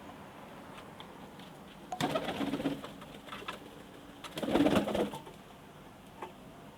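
Domestic pigeon cooing, two bouts about two seconds apart.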